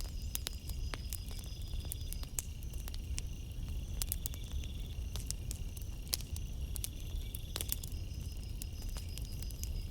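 Campfire crackling with irregular sharp pops over a low steady rumble, while crickets chirp in stretches of a few seconds that come and go.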